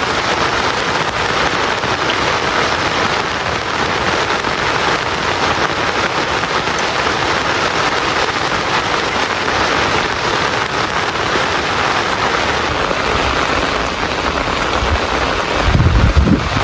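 Heavy rain pouring down in a steady hiss, with a brief low rumble near the end.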